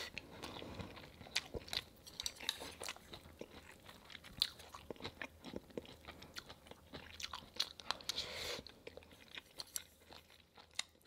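Close-up eating sounds: a person chewing a mouthful of food, with many small, sharp, wet mouth clicks at an irregular pace.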